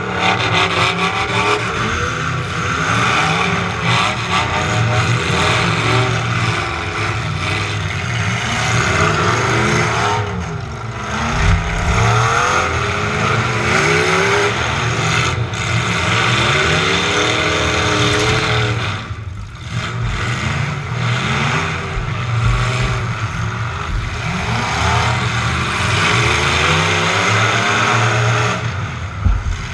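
Demolition derby truck engines revving hard, their pitch rising and falling over and over, with a couple of heavy thumps as the trucks collide.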